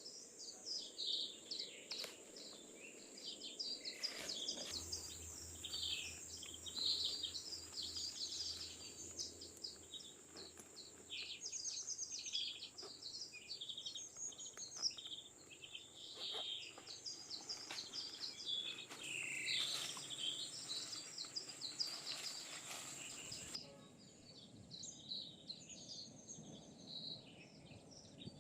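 Forest ambience: many birds chirping and calling over a steady high-pitched insect drone, which cuts out near the end.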